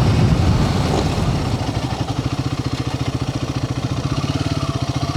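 Royal Enfield Himalayan 450's single-cylinder engine, louder with riding noise for the first second and a half, then dropping to a steady, even low-speed pulse, idling or rolling slowly.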